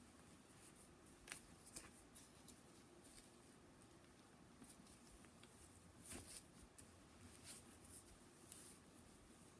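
Near silence with faint, scattered rustles of clothing being handled while someone dresses: a few brief soft rustles and clicks, the clearest about a second in and around six to seven and a half seconds in.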